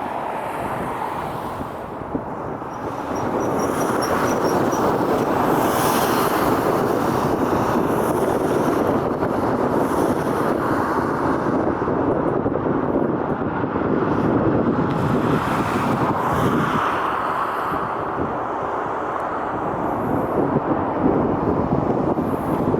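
Jet airliner engine noise: a steady rushing that swells about three seconds in and holds, with wind buffeting the microphone.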